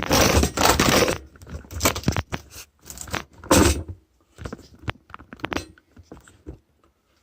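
Handling noise as a camera is set in place: a loud burst of rustling and scraping for about a second, then scattered clicks, taps and small rattles.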